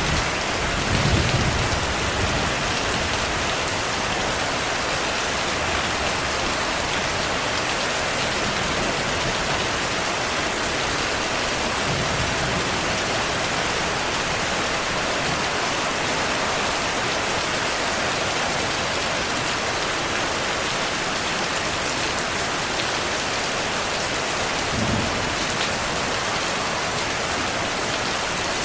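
Steady heavy rainfall with distant thunder rumbling low, once about a second in and again near the end.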